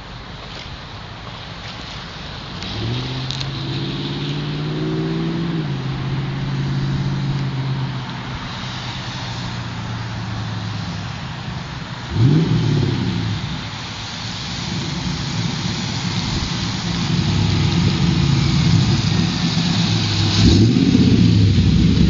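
LS1 Camaro's 5.7-litre V8 through long-tube headers, an off-road Y-pipe and a Loudmouth cat-back exhaust, running and being revved: the engine note climbs about three seconds in and holds, with sharp quick revs around the middle and again near the end, getting louder overall.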